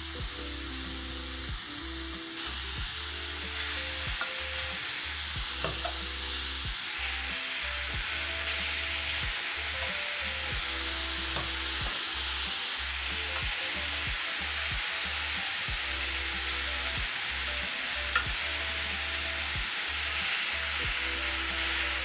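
Marinated chicken strips sizzling on a very hot grill pan as they are laid in, with a few light clicks of metal tongs against the pan. Background music plays underneath.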